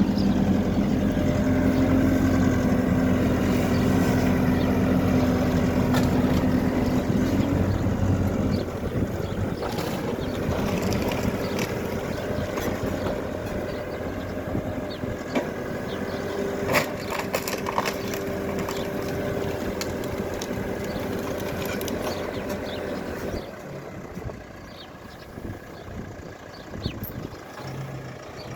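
Hidromek backhoe loader's diesel engine running under load, easing to a lower, quieter running note about eight seconds in, with occasional sharp knocks and clatter. It drops quieter again near the end.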